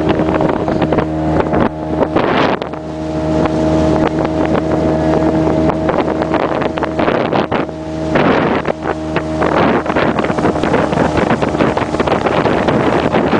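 Motorboat engine running steadily under way, with rushing water and wind buffeting the microphone. Two louder rushes of noise swell up, about two seconds in and again about eight seconds in.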